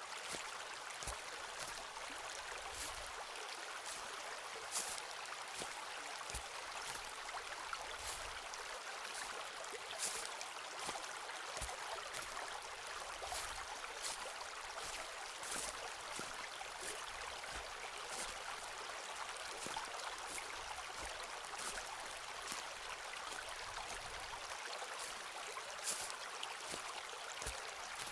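Footsteps walking along a forest path, irregular soft thuds and small crunching clicks every second or two, over a steady rushing hiss.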